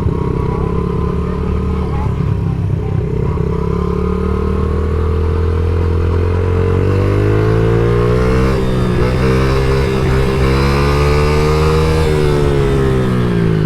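Dirt bike engine running under way, steady at first, then from about halfway through the revs climb and dip several times as the throttle is worked, falling off near the end.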